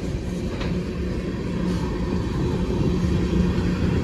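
Long freight train rolling slowly past: a steady low rumble of the railcars on the track.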